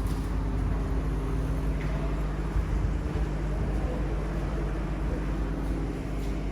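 Steady low rumble of a running train, with a faint steady hum and no sharp events.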